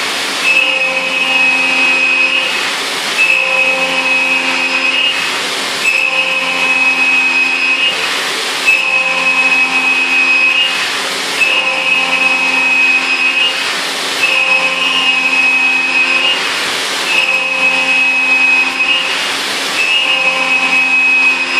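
CNC mill spindle running a 3-flute end mill at 8,000 rpm, trochoidal milling 6082 aluminium. A steady high whine is broken by a short rush of cutting noise about every two and a half seconds as the cutter sweeps in and out of the cut on each looping pass.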